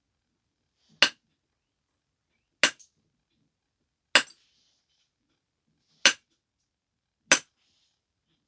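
Knapping strikes on a stone biface: five sharp, crisp clinks about a second and a half apart as flakes are taken off while the biface is refined.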